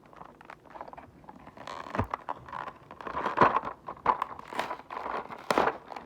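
A toy's cardboard box and plastic packaging being opened by hand: irregular scraping, crinkling and small knocks, busiest in the second half.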